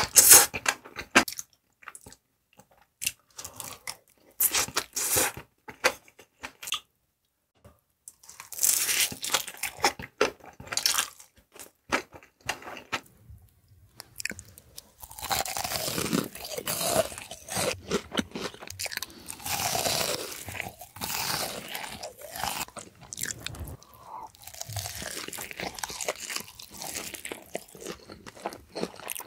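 Close-miked eating: crisp crunching bites and chewing with wet mouth sounds. There is a short pause about seven seconds in, and from about fifteen seconds the chewing becomes steadier and denser as battered fried food and rice cakes are eaten.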